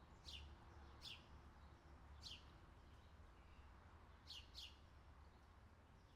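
Faint outdoor summer ambience recording: a bird gives short chirps that fall sharply in pitch, five in all, the last two close together, over a low steady hum.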